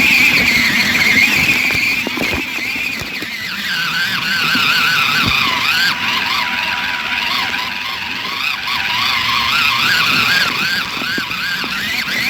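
Small electric motor and gears of a toy RC car whining, the pitch wavering up and down with the throttle. The pitch is high at first, drops lower and jittery from about three seconds in, and climbs again near the end.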